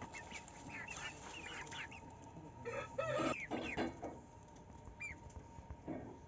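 Chickens clucking, with many short high chirps throughout and the loudest clucks about three to four seconds in.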